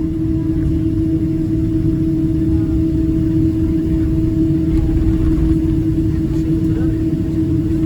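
Steady aircraft cabin noise inside a Boeing 777-200: a constant low rumble with a steady hum, no change in pitch or level.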